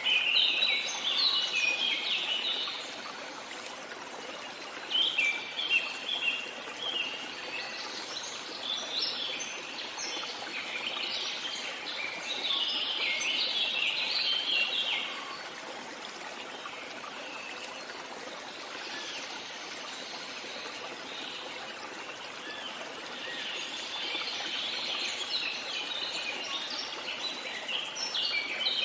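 Small birds chirping in quick bursts of twittering notes, several times with short gaps, over a steady rush of flowing water.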